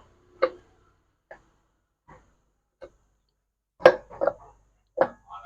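A scattering of short, sharp knocks and clinks, about seven of them, with the loudest pair about four seconds in: tools and metal engine parts being handled and set down while the clutch cover of a Honda Dream Neo 110 engine is bolted back on.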